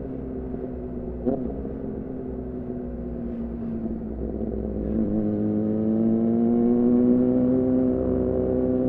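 2014 Yamaha R6's inline-four engine through an R9 titanium muffler and Leovince header, heard while riding. The engine note falls slowly as the bike rolls off the throttle, with a brief sharp blip just over a second in. About five seconds in it picks up and rises steadily under throttle.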